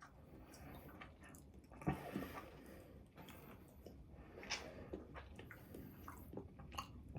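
A person chewing and eating, with irregular wet mouth smacks and clicks; one smack about two seconds in and another about four and a half seconds in stand out.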